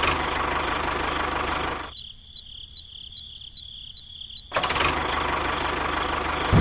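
A small motor running steadily, cutting out after about two seconds, then starting up again about four and a half seconds in. Faint regular ticking, two or three a second, can be heard while it is off.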